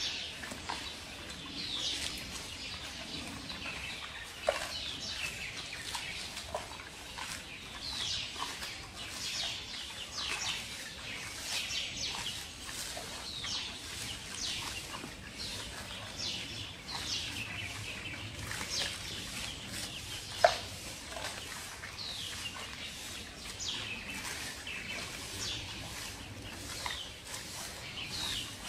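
Small birds chirping over and over in short, high, falling chirps, with a single sharp crack about twenty seconds in.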